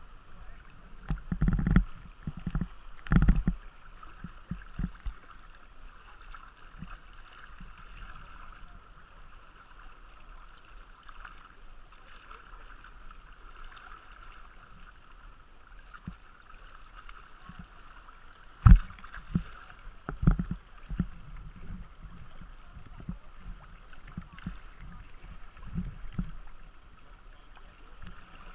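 Tandem kayak being paddled on a river: a steady rush of moving water with irregular low thumps and splashes, the loudest about two, three and nineteen seconds in.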